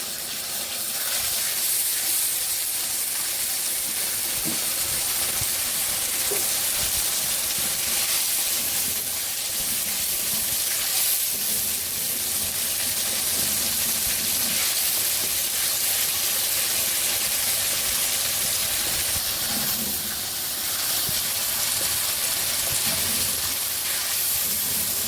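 Onion, tomato and spice masala sizzling in a hot pan, a steady frying hiss.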